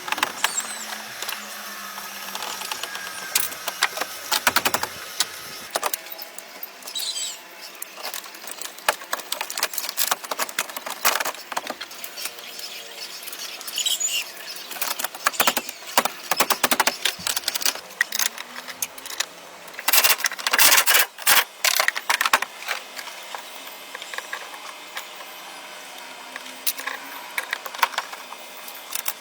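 A run of irregular sharp clicks and knocks, with a dense loud cluster about twenty seconds in.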